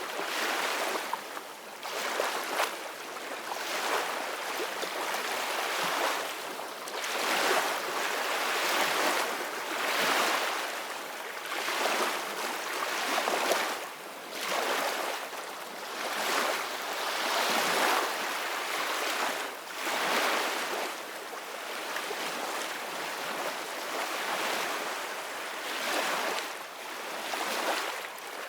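Ocean waves breaking and washing on shore, a steady rush of surf that swells and falls back every couple of seconds.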